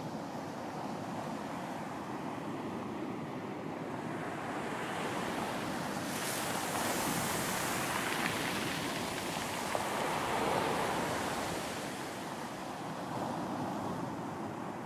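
Ocean waves washing onto a beach. A wave surges in about six seconds in, its hiss building and then fading after about eleven seconds.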